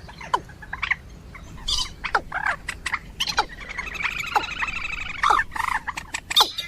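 Recorded rail calls of a common moorhen or watercock: a run of short, harsh calls that drop in pitch, with a longer, fast rattling call from about three and a half to five and a half seconds in.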